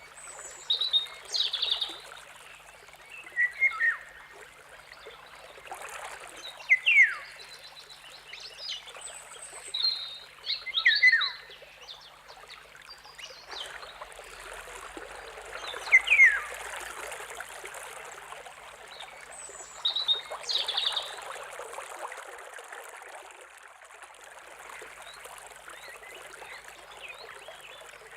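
A songbird calling in short phrases of sharp, falling whistles, repeated every few seconds, over the steady rush of a trickling stream.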